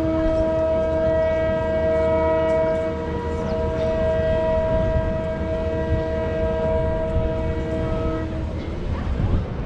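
Steam locomotive whistle giving one long chord-like blast of several notes, cut off about eight seconds in, over a low rumble.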